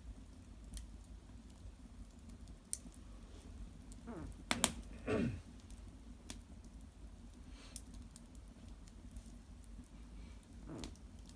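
Cedar branches and bark burning in an open hearth fire, crackling with scattered sharp pops. About four to five seconds in there is a brief louder sound that falls in pitch.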